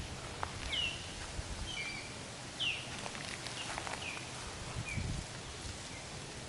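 Songbird chirping outdoors: short, high, downward-slurred chirps about once a second, growing fainter toward the end.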